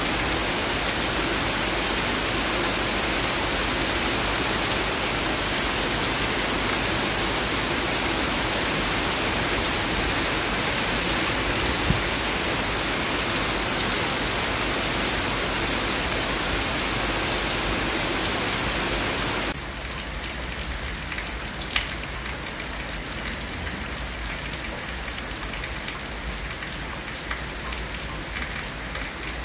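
Heavy rain falling steadily, a dense even hiss with a few single drop ticks. About two-thirds of the way through it drops suddenly to a quieter, lighter rain.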